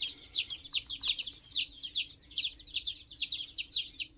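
A brooder full of baby chicks peeping: a continuous chorus of short, high, downward-falling peeps, several a second and overlapping, over a faint steady hum.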